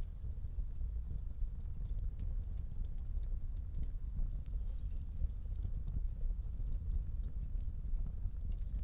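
Wood fire burning in a fireplace: many quick, irregular crackles and pops over a steady low rumble of the flames.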